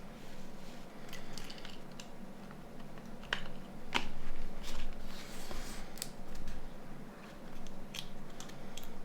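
Scattered small clicks and taps, with a short scrape about five seconds in, as small plastic and metal parts of a Nokia 9210 phone are handled and pressed into place during reassembly.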